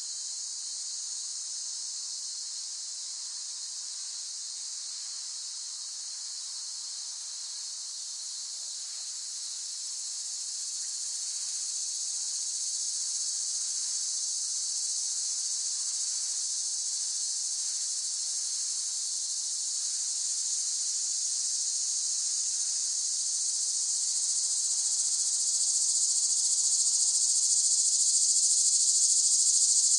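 Cicadas buzzing in a continuous, high-pitched drone that grows steadily louder from about a third of the way in.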